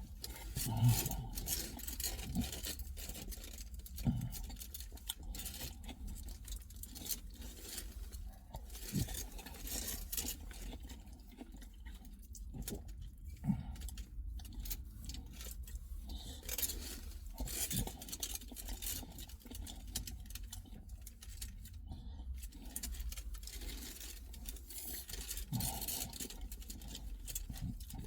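Someone eating a pork doner kebab: irregular rustling and small clicks of handling the food, over a steady low hum.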